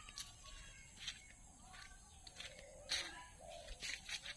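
Faint village ambience with birds calling and a few sharp clicks or taps; the loudest click comes about three seconds in.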